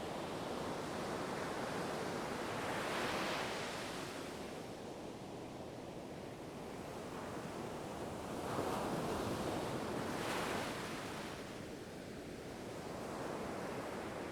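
Ocean waves washing onto a shore, a steady surf noise that swells as waves break, loudest about three seconds in and again in two surges past the middle.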